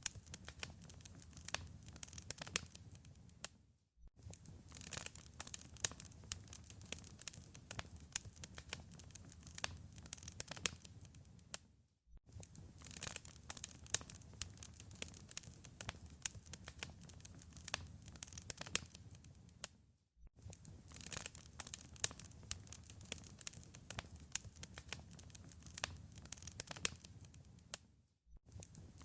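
Wood fire in a fireplace crackling and popping, dense sharp crackles over a soft low rumble. The fire sound fades out briefly about every eight seconds and comes straight back.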